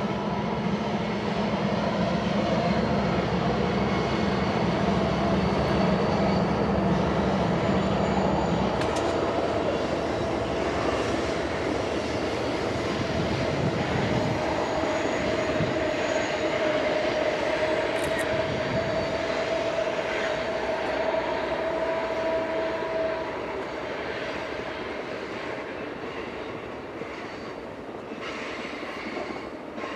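Union Pacific diesel freight locomotives hauling the California Zephyr past: a heavy engine drone for the first nine seconds or so, then the steady rolling noise of the train going by, with a held whine in the middle. It fades near the end.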